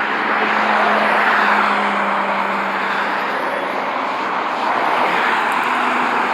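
Volvo VNL semi-truck passing on the road: a steady rush of tyre and engine noise with a low engine drone, swelling about a second in, with no horn.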